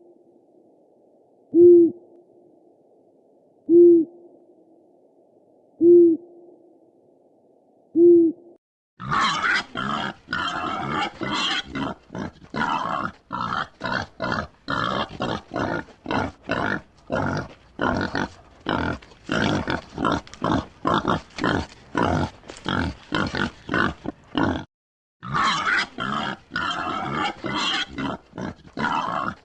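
An owl hooting: four short, low hoots about two seconds apart. Then, about nine seconds in, a pig grunting in a rapid run of short grunts, with a brief pause near the end.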